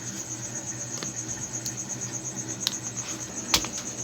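A few sharp clicks and scrapes from tools working on a washing machine's electronic control board, the loudest about three and a half seconds in, over a steady high-pitched pulsing trill.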